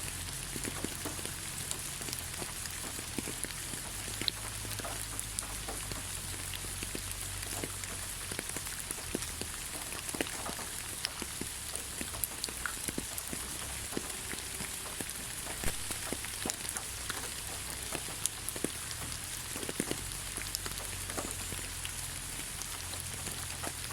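Steady rain falling on leaves: an even hiss with many separate drops pattering and ticking on the foliage.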